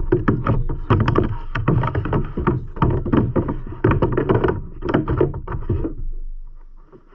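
Rapid, irregular knocks, thumps and rattles of handling against a kayak hull and gear, several a second, fading out about six seconds in.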